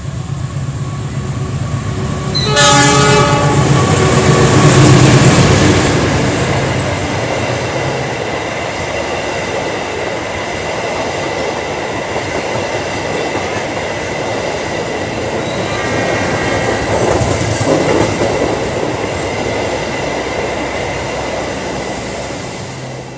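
Argo Wilis express train running straight through the station without stopping. Its horn sounds loudly about two and a half seconds in. Then comes the long rush of the carriages going past, with wheel clatter over the rail joints, and the sound dies away at the end.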